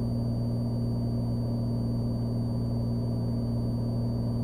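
Cessna Skylane's piston engine and propeller droning steadily in flight, heard inside the cabin as a constant low hum that does not change.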